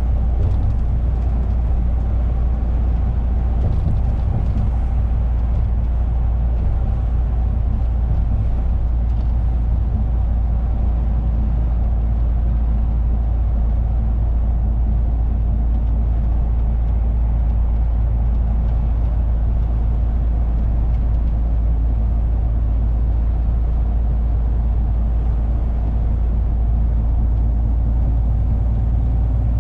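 Lorry engine and road noise heard inside the cab while driving: a steady low drone holding an even speed throughout.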